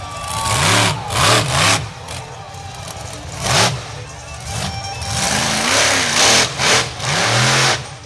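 Monster truck engine revving hard over and over, its pitch climbing and falling in quick arcs, with loud roaring surges when the throttle opens.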